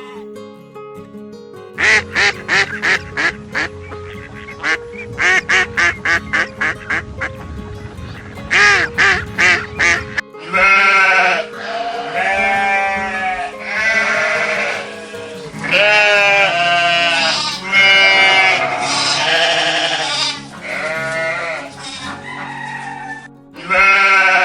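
Animal calls over background music. About two seconds in, a fast run of short pitched calls begins, several a second, lasting about eight seconds; then come long, wavering calls, one after another.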